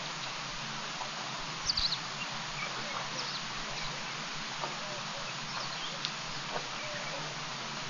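Steady outdoor hiss with scattered short, high bird chirps and a few soft clicks. The loudest moment is a brief knock with chirps about two seconds in.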